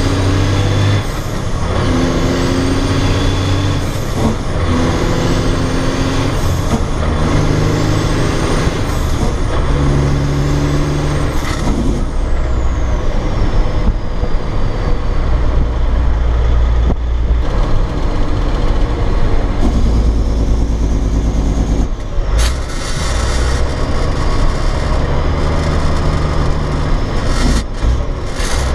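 Cat C15 diesel in a dump truck pulling through the gears of a 13-speed Eaton Fuller transmission shifted without the clutch: the engine note climbs and drops back at each shift about five times in the first twelve seconds, with a high whine rising and falling alongside. After that the engine settles into a steadier low drone.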